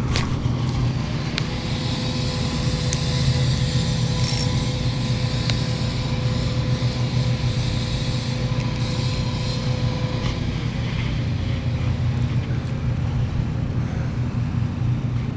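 Steady low engine rumble with a faint steady hum that sags in pitch and fades about ten seconds in.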